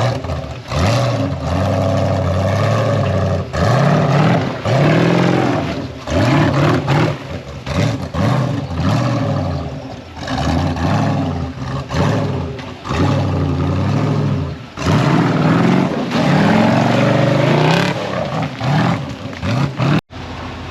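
Off-road rig's engine revving up and falling back repeatedly under throttle blips, every second or two, as it works over trail obstacles.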